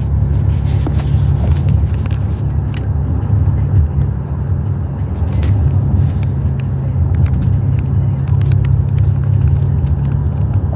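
Car driving: a steady low rumble of engine and road noise, with faint scattered clicks.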